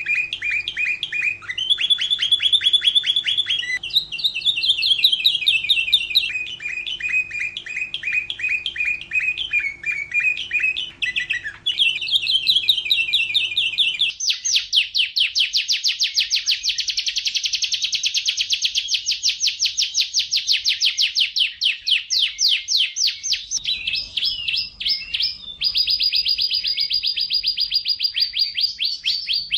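Domestic canary singing a continuous song of fast trills and rolls, each phrase a rapid run of repeated notes that switches pitch every few seconds, including one long fast trill about halfway through.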